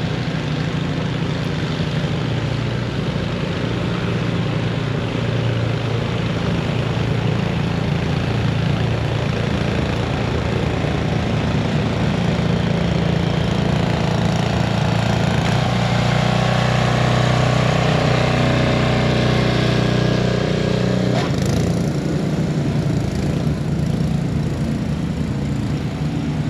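A combustion engine running steadily with a low hum over a wash of street noise. It grows louder toward the middle, then drops away sharply about twenty-one seconds in.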